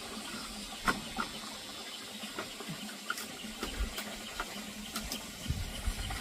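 Water running steadily, with scattered light clicks and knocks and a few dull low thumps.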